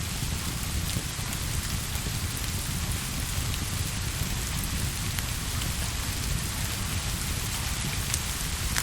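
Steady rain: an even, continuous hiss with a low rumble underneath and a few faint ticks scattered through it.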